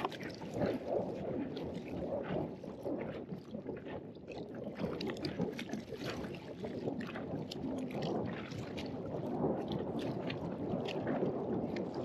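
Wind rushing over the microphone and choppy water lapping against an inflatable boat, with many short, sharp splashes and clicks scattered throughout.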